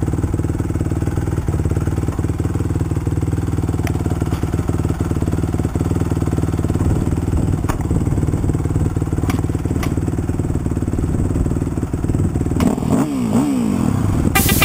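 Motocross bike engine running steadily at low speed, with a few light clicks. About 13 seconds in it revs up and down a couple of times, and music starts right at the end.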